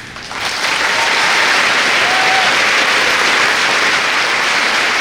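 Large audience applauding, building within the first half second and holding steady.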